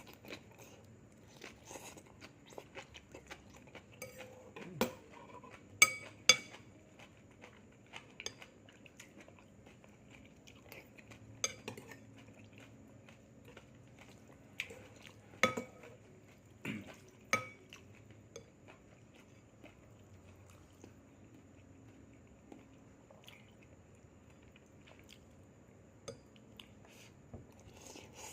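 Spoon and cutlery clinking against dishes while eating: scattered light clicks, with a few sharp ringing clinks, the loudest twice about six seconds in and again about fifteen and seventeen seconds in, and quiet chewing between.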